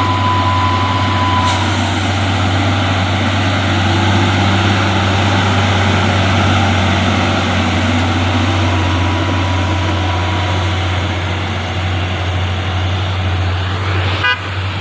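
Hino 500 truck's diesel engine running under load up a steep climb: a loud, steady drone that eases slightly near the end.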